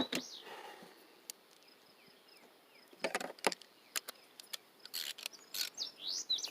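Faint birds chirping, then from about three seconds in, irregular sharp clicks and knocks of hand tools as a 10 mm socket and wrench are worked on an outboard motor.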